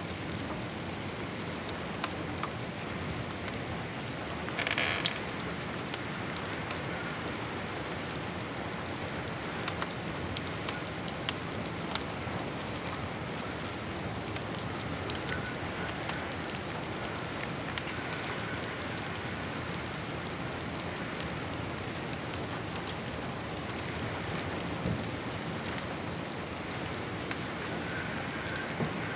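Steady rain falling, with scattered sharp pops from a crackling fireplace. A brief, louder rasping crackle comes about five seconds in.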